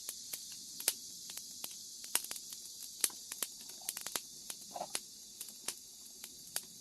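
Wood fire crackling under a cast-iron cauldron, with irregular sharp pops several times a second. A steady high chirring of crickets goes on underneath.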